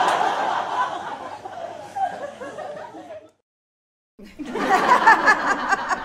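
Crowd laughter dying away about three seconds in, a moment of silence, then a small crowd breaking into laughter.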